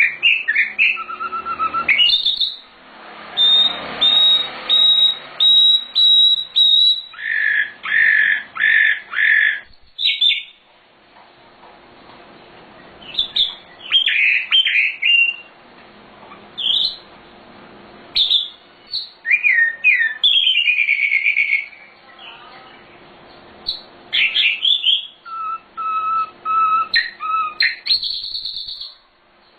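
Sikatan londo singing a varied song of short whistled and chattering phrases separated by brief pauses, including a run of four evenly repeated notes about eight seconds in.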